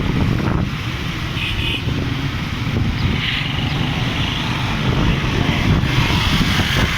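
A vehicle on the move: a steady, low rumble of engine and road noise.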